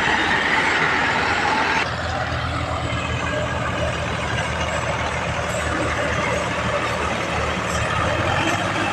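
Tractor engine running steadily with a low rumble; the sound changes abruptly about two seconds in.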